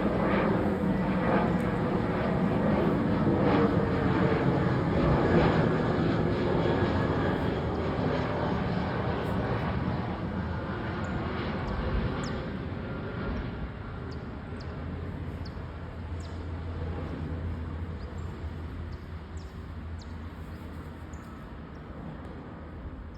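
Airplane passing low overhead: a loud rumbling drone, at its loudest in the first six seconds or so, then gradually fading away as it moves off.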